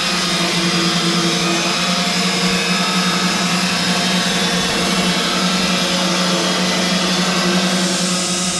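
Sawmill machinery running steadily under power: a constant motor hum with a dense high whir over it.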